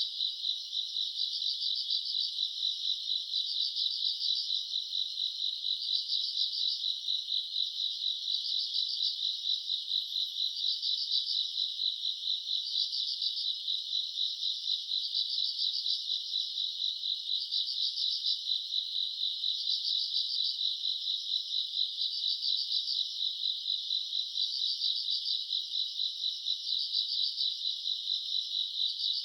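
Chorus of summer-night grass insects: a steady high trill, with a louder pulsing call coming back about every two seconds.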